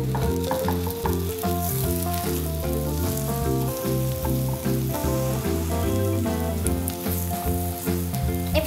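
Omelette egg sizzling in a nonstick frying pan while a silicone spatula pushes and folds it, under background music with a steady, stepping melody.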